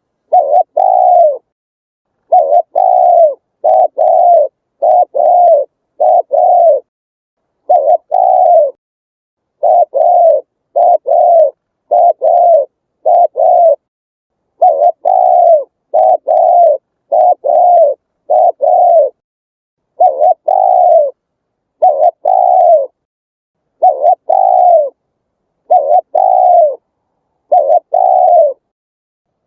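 Spotted dove cooing: short coo notes, each rising then falling in pitch, given mostly in quick pairs, about a pair a second, with silence between.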